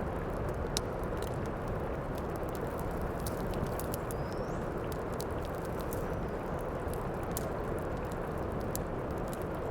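Heavy rain falling steadily, with the scattered sharp pops and snaps of a crackling fireplace fire over it.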